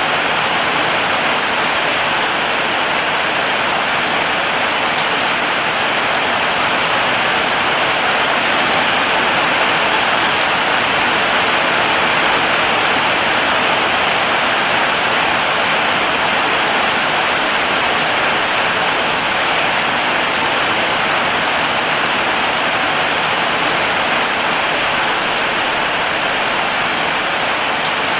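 Heavy rain falling steadily, a dense even hiss of drops with no distinct separate impacts.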